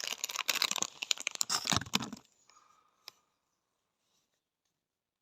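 Packaging crinkling and rustling as it is handled, stopping about two seconds in. A single short click about a second later.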